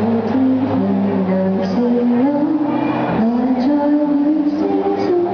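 A woman singing a slow pop ballad live, holding and gliding between long notes over acoustic guitar strumming.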